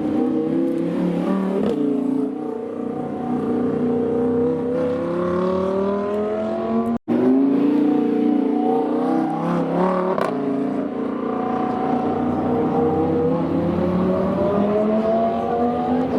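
Loud supercar engines accelerating, each rising steadily in pitch over several seconds. There are three long climbs, the first broken by a sudden cut about seven seconds in.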